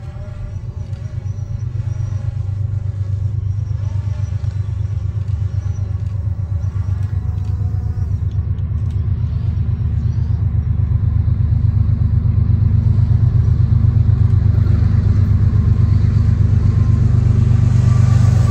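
Approaching train: a deep, steady engine rumble growing gradually louder.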